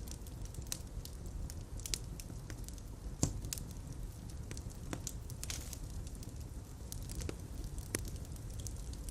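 Fire in a fireplace crackling with irregular sharp pops over a low, steady rumble of flames; the loudest pop comes about three seconds in, another near the end.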